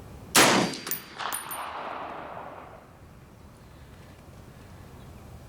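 A single shot from a National Match M1A rifle about half a second in, followed by a couple of smaller knocks and the report echoing away over the next two seconds. It is one of the fouling rounds with a Nosler 175 grain handload.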